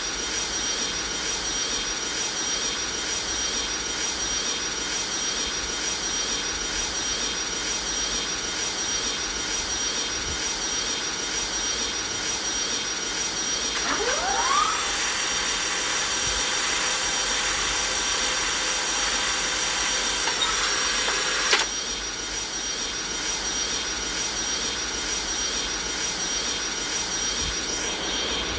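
Boeing 737 jet engines running with a steady rush and a thin high whine. About halfway through a rising whine comes in, and a set of higher tones holds for several seconds, then cuts off suddenly.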